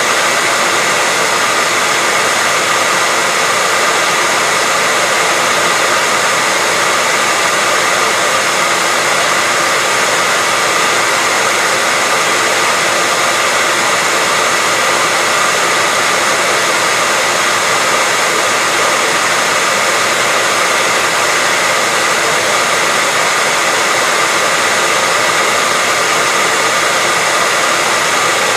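Hair dryer running steadily, a constant loud whoosh of blown air with a faint steady whine from its motor and fan.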